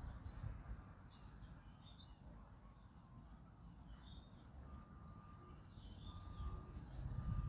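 Small birds chirping and twittering in quick high calls, with a level whistled note repeated about once a second from the middle on, over a low wind rumble.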